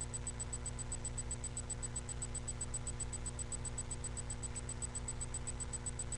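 Steady electrical hum and buzz from a webcam microphone: a constant low hum with a few steady tones, and a fast, even ticking high up.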